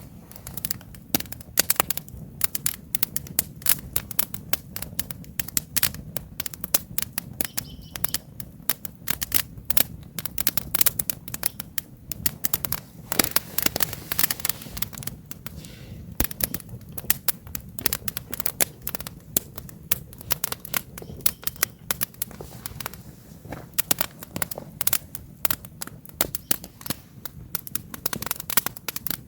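Wood campfire burning and crackling, with many sharp irregular pops and snaps over a low steady rumble of the flames.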